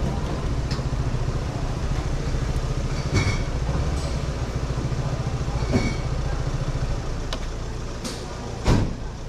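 Honda 125 cc motorcycle engine running steadily with a low pulsing rumble under road and wind noise. Three short sharp knocks cut through it, the loudest near the end.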